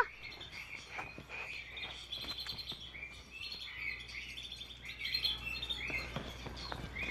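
Birds chirping: many short, quick calls repeating in a steady outdoor chorus, with a few faint scattered clicks.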